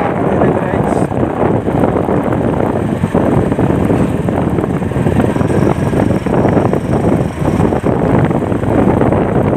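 Wind buffeting the microphone while riding, over steady road and engine rumble.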